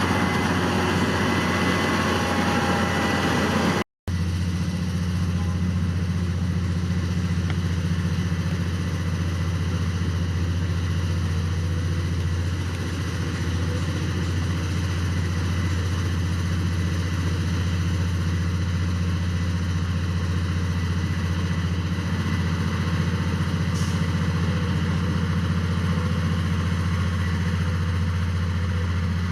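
Heavy diesel engine of earthmoving machinery running steadily with a low drone. It drops out for an instant about four seconds in and comes straight back.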